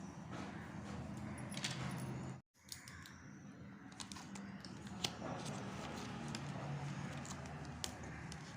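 Chocolate wrappers being handled and opened: crinkling and rustling with scattered sharp clicks, over a steady low hum. The sound cuts out briefly about two and a half seconds in.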